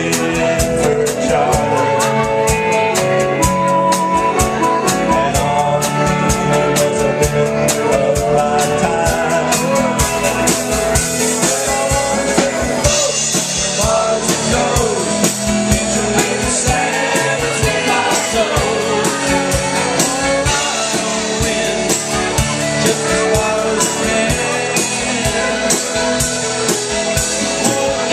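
A rock band playing live: singing over drum kit and guitar.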